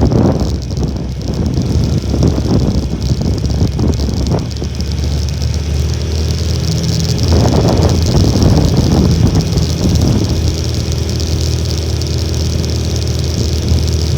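Honda Little Cub's small single-cylinder four-stroke engine running steadily while riding, with gusts of strong typhoon wind buffeting the microphone, strongest about halfway through.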